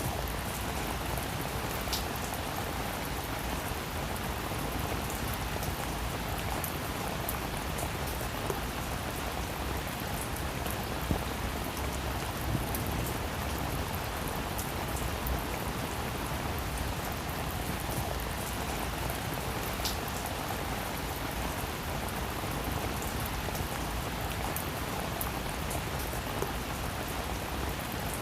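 Steady rain falling on a roof, an even hiss with scattered individual drops ticking and a few louder taps.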